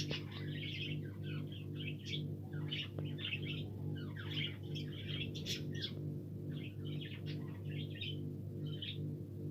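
A flock of budgerigars chattering, with many short, quick chirps and warbles overlapping, over a steady low electrical hum.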